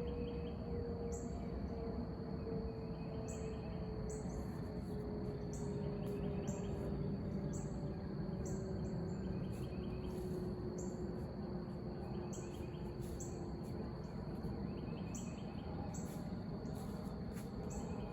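Insects, crickets among them, chirping in a regular repeating rhythm, with a steady high whine and groups of pulsed calls, over a low steady background noise. A faint low tone slowly falls in pitch through most of it.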